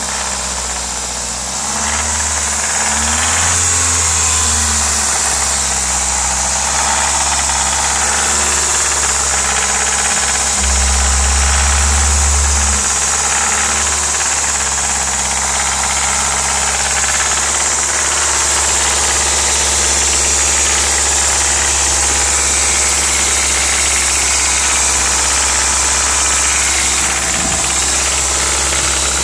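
Audi S3's 1.8-litre 20-valve turbocharged four-cylinder engine running steadily, mostly at idle, with an unexplained rattle from the engine.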